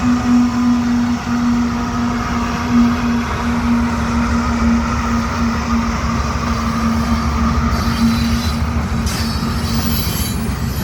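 Loaded gravel freight train rolling past: a steady rumble of wheels on rail with a continuous low hum, and high-pitched wheel squeal joining in near the end.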